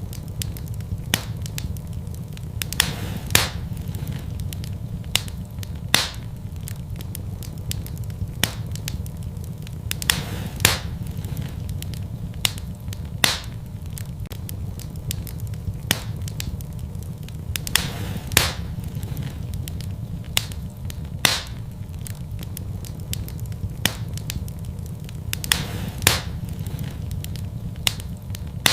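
Fire burning in a fireplace: a steady low rumble under irregular sharp crackles and pops, a loud pop every few seconds with smaller crackles between.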